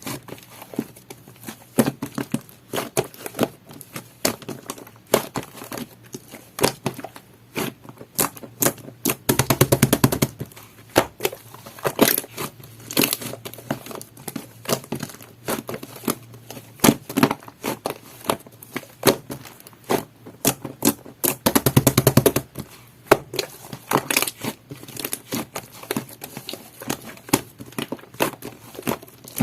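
Jelly-textured slime being squished and pressed by hand, giving irregular wet clicks and pops. Twice, near 10 s and 22 s, it breaks into a rapid run of crackling clicks.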